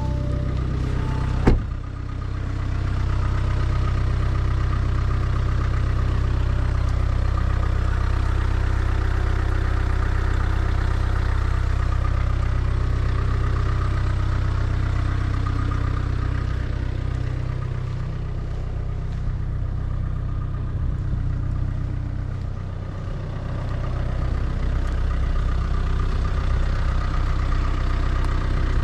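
Audi A4 B9's 2.0 TDI four-cylinder diesel idling steadily after a cold start. A short chime and a single thunk sound in the first two seconds.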